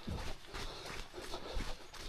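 Running footsteps on a packed-earth forest trail, an even stride of about three footfalls a second.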